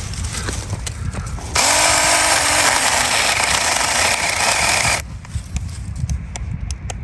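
Saker mini cordless electric chainsaw spinning up with a rising motor whine and cutting into a thick piece of wood, near the largest diameter it can handle, for about three seconds, then cutting out suddenly. The saw stopping under this load is what the owner reports as "it stopped on me."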